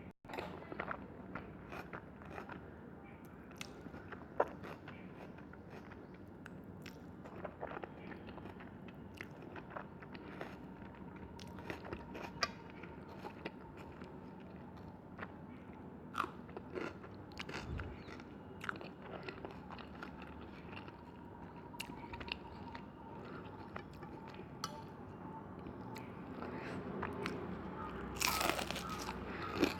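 Close-up eating sounds: a person biting and chewing food, with scattered crisp crunches and clicks and a louder, longer crunch near the end.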